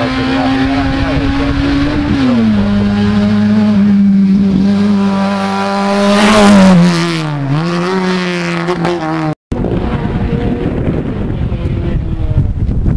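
A classic Mini rally car's engine running hard at high revs, the note stepping down about two seconds in, loudest as the car passes about six seconds in, then dipping and picking up again through the bend. It cuts off abruptly, and a rough rushing noise follows.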